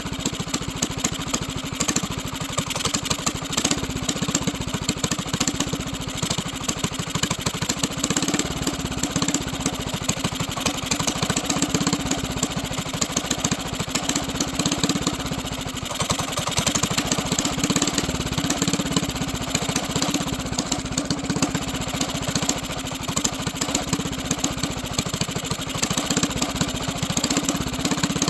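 Mini bike's small engine running steadily at idle, with a rapid, even firing beat.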